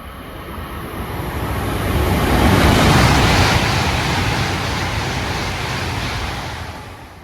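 Tohoku Shinkansen bullet train passing through a station at high speed: a rushing roar that builds, is loudest about three seconds in, holds, then fades near the end.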